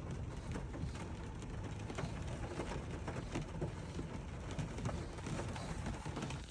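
Heavy rain pouring down: a steady hiss with many separate drops ticking against a surface.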